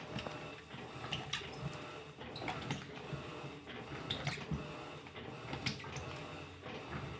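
Electrolux LTC15 top-loading washing machine agitating a load of sneakers in water: irregular sloshing and short knocks over a low motor hum.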